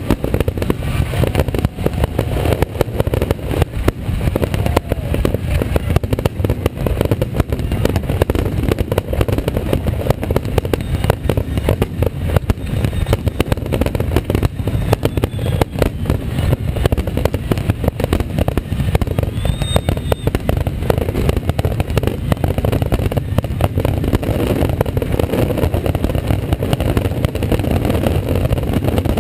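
Aerial fireworks in a rapid barrage: shell bursts banging and crackling one on top of another without a break, over a deep continuous rumble.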